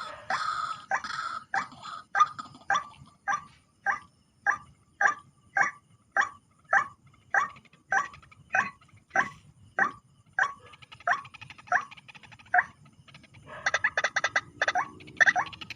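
White-breasted waterhen (ruak-ruak) calling: a steady series of short harsh notes, somewhat under two a second, that breaks into a quicker, jumbled run of notes near the end.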